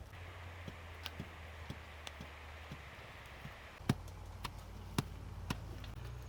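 Scattered light knocks and taps at an uneven pace over a steady low hum, with the sharpest knocks about four and five seconds in.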